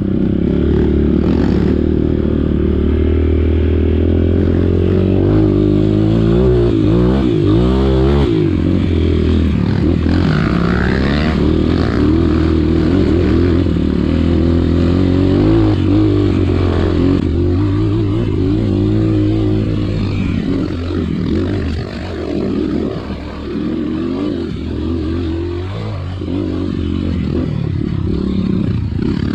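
Trail motorcycle engine running under load, its pitch rising and falling again and again as the throttle is worked.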